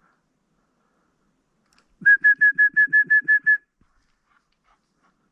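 Dog training whistle blown in a quick run of about nine short toots at one steady pitch, about six a second, starting about two seconds in. This is the kind of signal a handler uses to call a bird dog in.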